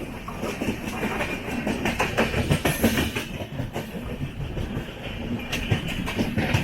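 Passenger train coach rolling along the track, heard from inside: a steady rumble with bursts of wheel clatter, heaviest in the middle and again near the end, as the train rolls slowly into a station over the rail joints and points.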